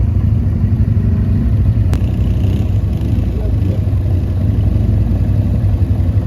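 Quad bike (ATV) engine running steadily under way, with one sharp click about two seconds in.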